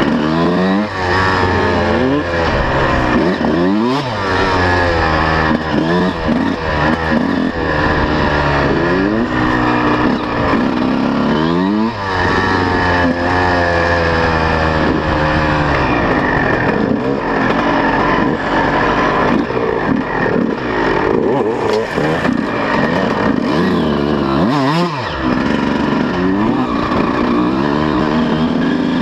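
Two-stroke 125 cc motocross bike engine being ridden hard, its pitch rising and falling over and over as the throttle is opened and shut and it shifts gears.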